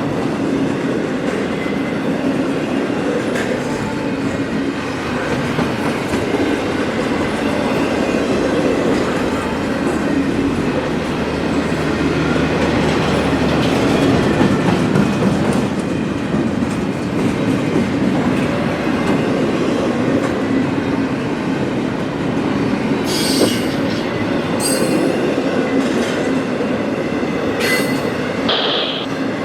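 Freight train cars rolling past, a steady rumble and clatter of steel wheels on rail. There are several short, high wheel squeals near the end.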